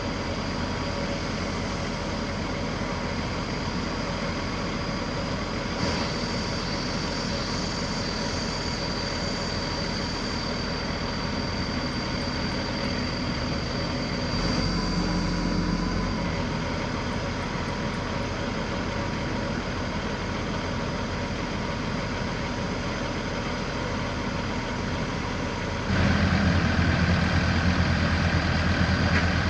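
Diesel engine of a tracked earthmover running steadily, with a thin high whistle over the engine note. Near the end the engine gets louder and deeper, as if put under more load.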